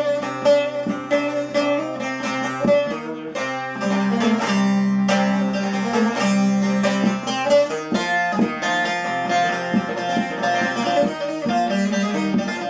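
Bağlama (saz) played alone in an instrumental passage: quick picked notes over a steady low ringing note.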